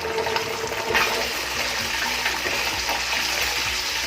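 Hot oil with chili flakes sizzling in a frying pan, the sizzle jumping up about a second in as ketchup goes into the hot oil, then frying steadily.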